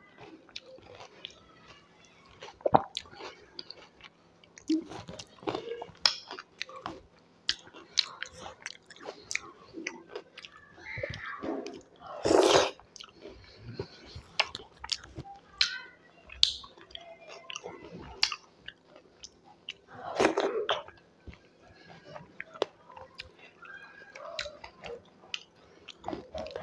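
Close-miked chewing and wet mouth sounds of someone eating curd-soaked golgappa (dahi puri), with a run of short smacks and clicks and two louder bursts, about halfway and again about three quarters through.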